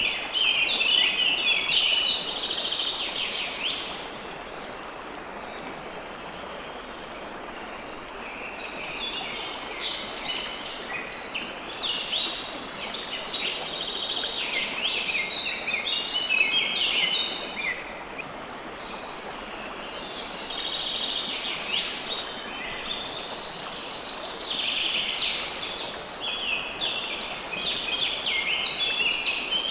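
Songbirds singing in bouts of rapid, high chirping notes with pauses of several seconds between them, over a steady rush of running water.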